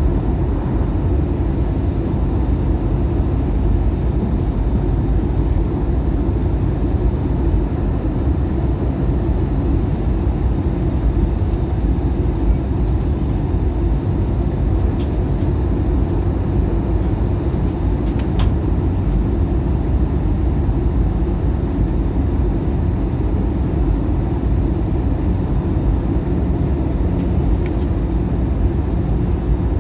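Steady cabin noise of an Airbus A320-200 in flight during descent: a constant low rumble of airflow and engines, with a couple of faint ticks about two-thirds of the way through.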